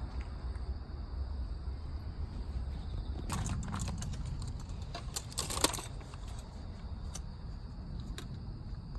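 Small hard objects clinking and rattling for a couple of seconds, with a few single clicks afterwards.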